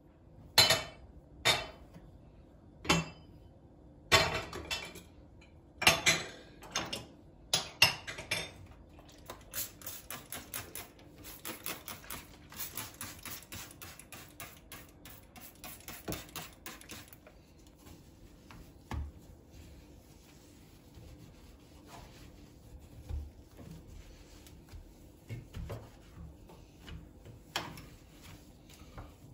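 Kitchenware clinking and clattering as it is handled: several sharp knocks in the first few seconds, then a run of quick light ticks, then scattered knocks.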